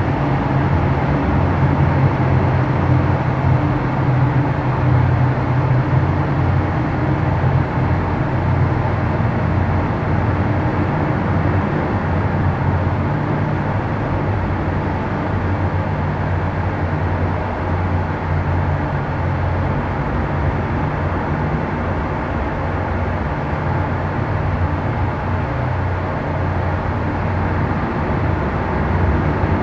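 Boat engines running with a steady low hum.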